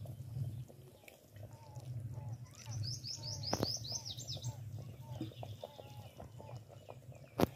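Small birds chirping, with a quick run of about eight high chirps about three seconds in and shorter calls scattered through, over a steady low hum. There is a sharp click near the middle and a louder one near the end.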